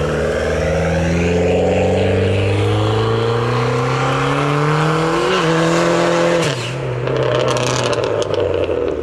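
Car engine held at high revs while spinning its wheels in a smoky burnout, the pitch climbing steadily for about five seconds. About six and a half seconds in the revs drop sharply as the throttle is let off.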